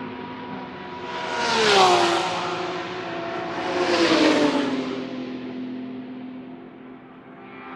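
GT3 race cars passing at speed one after another, two go-bys about two seconds apart. Each engine note falls in pitch as the car goes past, and another car approaches near the end.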